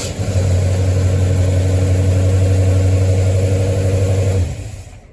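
1973 Ford Mustang engine running steadily just after being restarted, then stopping about four and a half seconds in. It fired and ran without trouble, a sign that the engine starts and runs perfectly well on its battery after the 3G alternator conversion.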